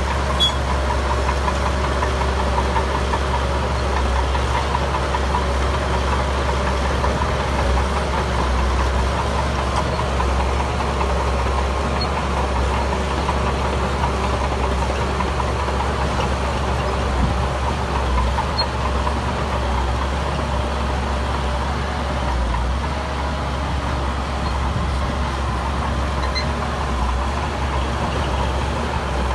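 Heavy diesel construction-machine engine running steadily, with a few faint high clicks.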